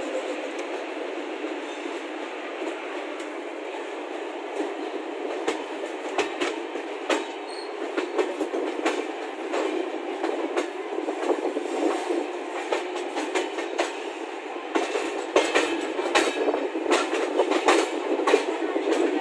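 Passenger train rolling out of a station, with a steady rumble of wheels on rails and clickety-clack over rail joints and points. The clacks start a few seconds in and come faster and louder near the end as the train picks up speed.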